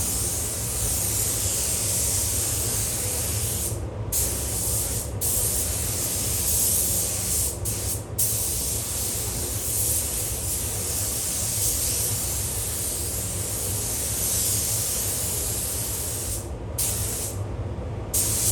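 Automotive paint spray gun laying on the first coat across a car boot lid: a loud steady hiss that cuts out briefly about six times, over a low steady hum.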